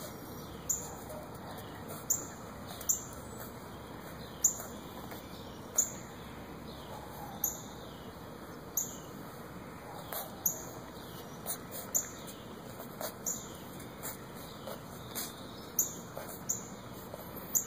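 A bird chirping over and over: short, sharp, high-pitched calls about once a second, over a faint steady background hiss.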